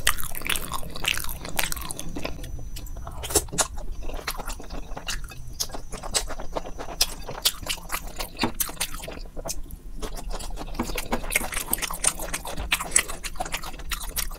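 Close-miked chewing of soft macaroni, with many short wet mouth clicks and smacks.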